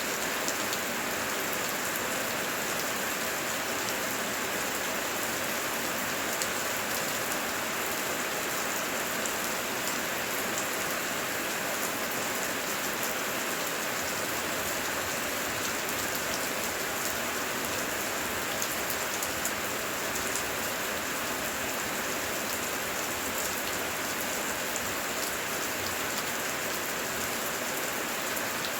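Heavy, steady rain with dense patter of individual drops.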